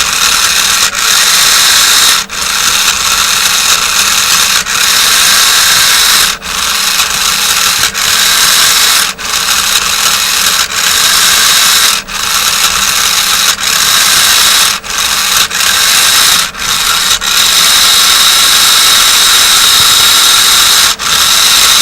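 Small electric drive motors and gearing of a microcontroller-driven toy car running loudly with a whine, cutting out briefly every one to two seconds.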